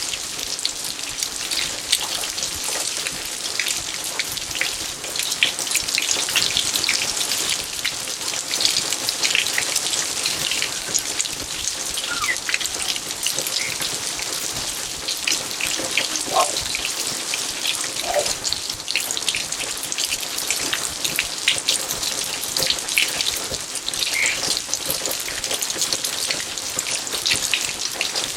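Steady rain falling in a garden: a dense, even patter of drops, with a few pitched drips about halfway through.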